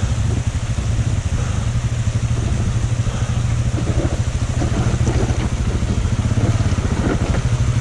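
Big single-cylinder dual-sport motorcycle engine idling with a fast, even, low thump.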